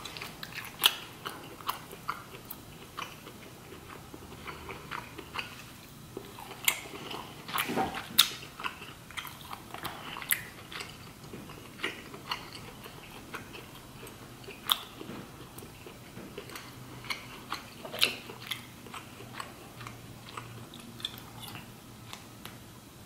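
Close-miked chewing of lobster meat, with sharp mouth clicks scattered irregularly throughout.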